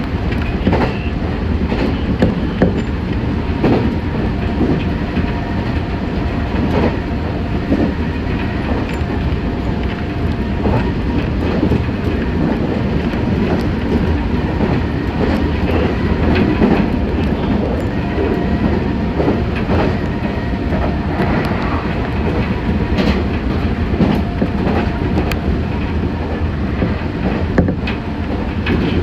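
Meitetsu 6500 series electric train running at speed, heard from inside the car: steady rumble of wheels on rail with irregular clacks over rail joints.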